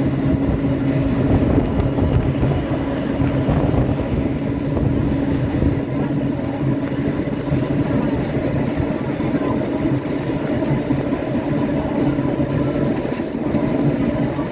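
Subway train running at a steady speed: a continuous rumble with a steady hum that holds one pitch throughout.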